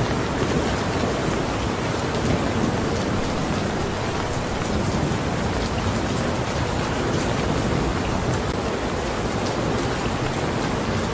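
Steady rain falling, a dense even hiss with individual drops ticking sharply against a surface.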